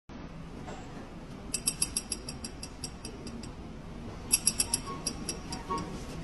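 Strange noise from a car's front end: two runs of quick, sharp metallic clicks with a high ringing, the first about a second and a half in and slowing as it goes, the second shorter, near the end.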